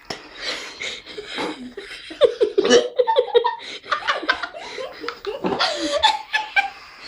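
People laughing hard in quick repeated bursts of voice, with giggling and snickering.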